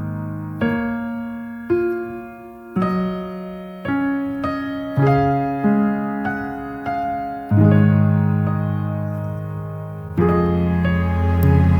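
Slow, gentle piano music: single notes and chords struck about once a second and left to ring and fade, over deep bass notes.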